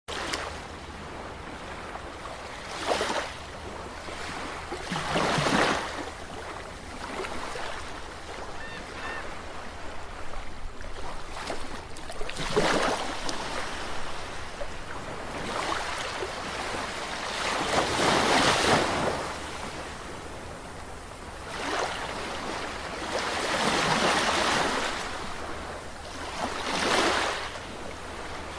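Waves washing and breaking, with about seven surges that swell and fade every few seconds over a steady low rumble.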